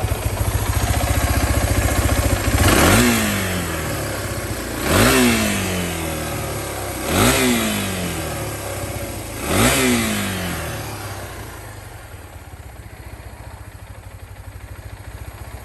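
Suzuki DR250 single-cylinder four-stroke motorcycle engine idling, then blipped four times about two seconds apart, each rev rising sharply and falling back to idle. The engine runs more quietly near the end.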